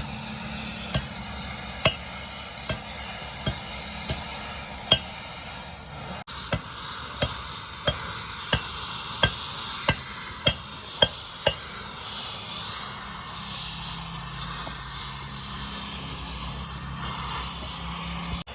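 Metal being struck with a hammer: a run of sharp ringing taps, about one and a half a second, over a steady high hiss. The taps stop about eleven seconds in, and the hiss carries on.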